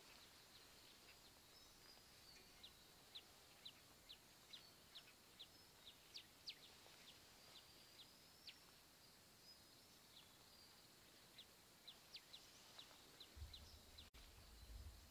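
Small birds chirping: a series of short, high, sharp chirps, up to a few a second, over a quiet steady background hiss, with a brief low rumble near the end.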